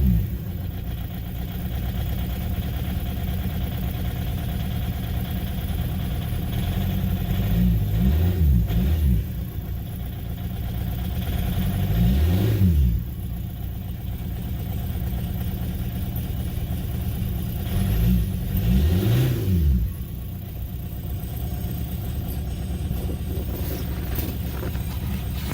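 Car engine idling after a cold start and revved up and back down a few times in short throttle blips, the pitch rising and falling with each one.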